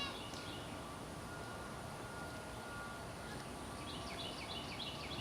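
A songbird singing quick runs of repeated, down-slurred high chirps, once at the start and again for the last second and a half, over a steady outdoor background hiss.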